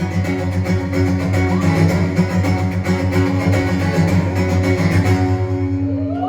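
Live band playing the instrumental close of a song: guitars over a fast, pulsing low bass line, the high end thinning out near the end as the song finishes.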